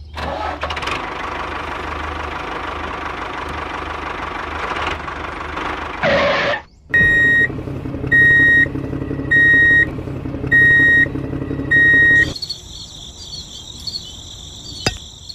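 Vehicle engine running steadily, then a short whoosh. After that a reversing alarm beeps five times at an even pace over the engine hum, and a high-pitched whine takes over near the end.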